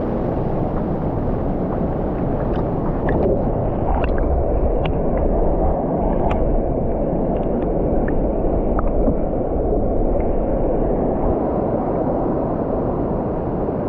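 Waterfall and river water rushing steadily, a deep constant noise with scattered faint short ticks of splashing.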